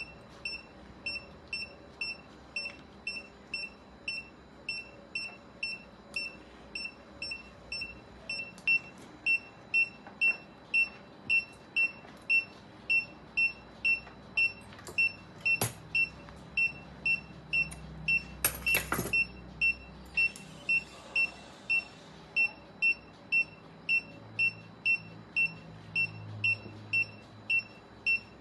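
Surgical patient monitor beeping steadily in a high, even tone, about one and a half beeps a second, louder from about eight seconds in. A few sharp clicks come near the middle.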